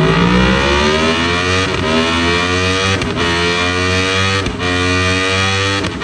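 A sport bike engine on a dyno, run under full throttle with its pitch climbing steadily. There is a brief break about every second and a half as it shifts up a gear.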